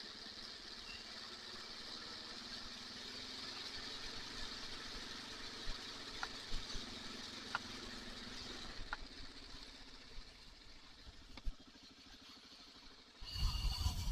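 Kawasaki KLR650 single-cylinder motorcycle engine running steadily at low speed under a hiss of wind, its note fading away about nine seconds in, with a brief low rumble near the end.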